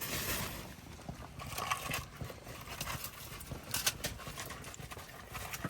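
A few sharp, irregular knocks over a steady low rumble.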